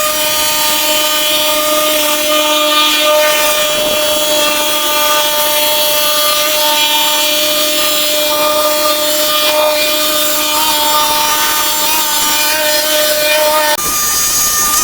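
A power tool running steadily with a high, unchanging whine over a hiss; the sound changes abruptly near the end.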